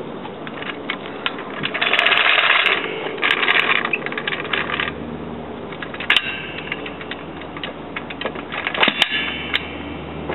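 Metal clinks and rattles from a car jack and jack stands being handled and set in place, with two longer rattling or scraping stretches about two and three seconds in and sharp clicks later.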